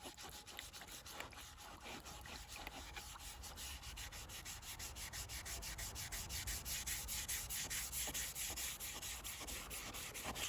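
Hand scrubbing of a vintage Walters axe head's steel with an abrasive pad or paper, wetted with vinegar to take off rust: quick, even back-and-forth rubbing strokes, several a second, growing louder over the first half.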